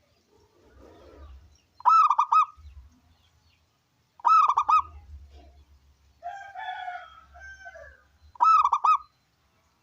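Zebra dove (perkutut) cooing: three loud calls a few seconds apart, each a quick run of rolling notes. Between the second and third call comes a softer, rougher call of a different kind.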